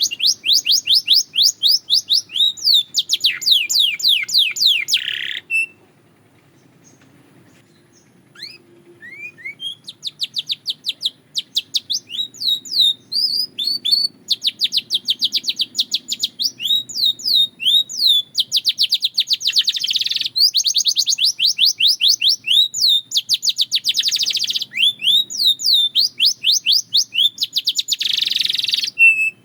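Belgian canary singing: long, fast trills of rapidly repeated high notes. The song breaks off about five seconds in for a couple of seconds, a few single notes follow, and then the trilling resumes and continues.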